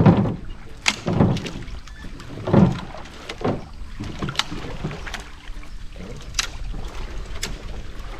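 Canoe being paddled: paddle strokes swishing through the water in repeated surges, with a few sharp knocks of wood or plastic against the hull.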